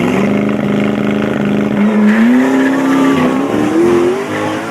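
Supercar engine running hard at high revs, its pitch holding steady and then climbing in steps from about two seconds in, dropping back near the end.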